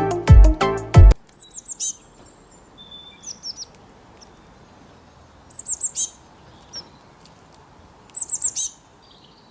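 A bird calls in quick bursts of four or five high, falling chirps, repeated about four times with a short whistled note between, after bass-heavy music cuts off about a second in.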